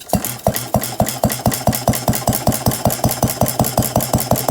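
1910 Paige cream separator engine, a small single-cylinder engine, starting and running with a steady rapid knocking beat of about five strokes a second, the beat settling in over the first second.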